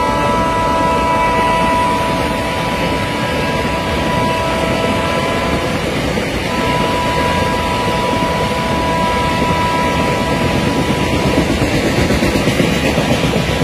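Long double-stack container freight train running past, a steady loud rumble of its wagons on the rails, with a steady high tone over it that breaks off briefly about six seconds in.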